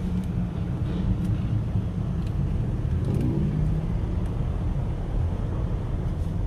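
Mitsubishi Pajero running steadily on the road, heard from inside the cabin as a low, even rumble of engine and road noise.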